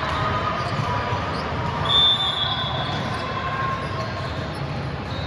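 Game sounds in a sports hall: a ball bouncing on the court amid general court noise, with a short high squeal about two seconds in.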